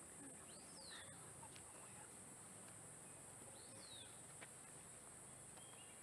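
Faint, high whistled bird calls, each a short rise then a falling glide, heard twice about three seconds apart over a steady high buzz of insects.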